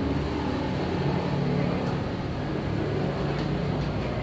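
A steady, low mechanical drone.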